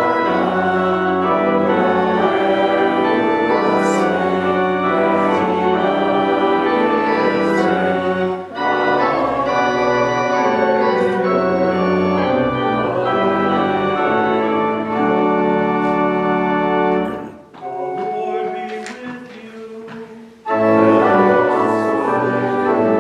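Church pipe organ playing sustained chords, dropping to a quieter passage about three-quarters of the way through before a full chord sounds again.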